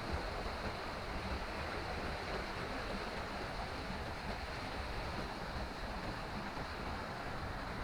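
Steady, even rush of a river cascading down a waterfall and over rapids.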